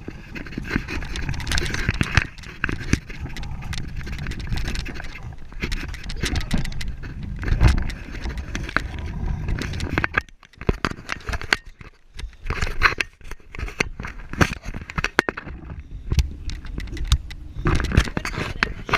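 Rattling, scraping and irregular clicks and knocks from a bicycle being ridden over uneven ground.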